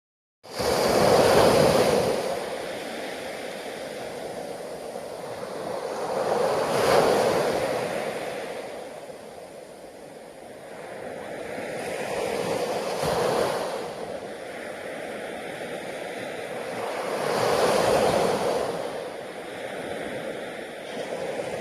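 Ocean surf: waves breaking and washing in, swelling four times about every five to six seconds over a steady rush of water.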